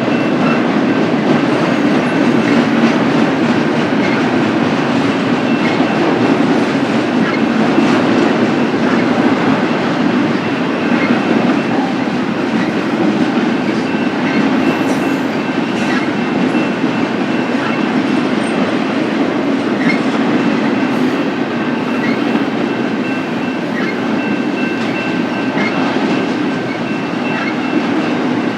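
Freight train cars rolling past steadily, wheels clacking over the rail, with a faint steady high-pitched tone above the rumble.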